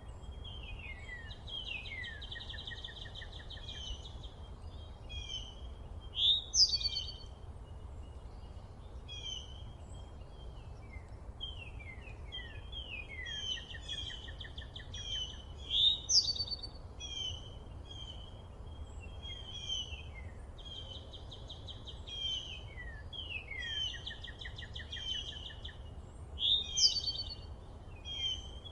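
Several songbirds chirping and singing, with many short sweeping notes. A loud rising song phrase comes back about every ten seconds. Underneath is a low steady rumble.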